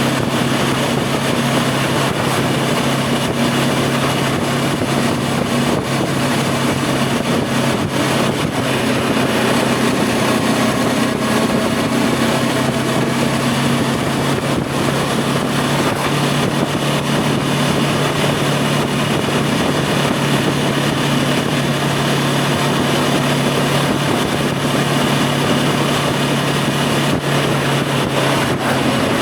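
Voge 525 DSX motorcycle's parallel-twin engine running at fairly steady revs while riding, with wind rush over the microphone.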